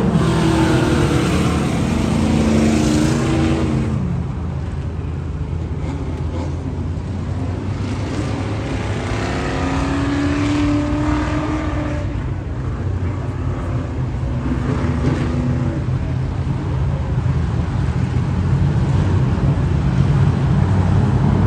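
Race car engine running steadily, its pitch rising and falling a few times.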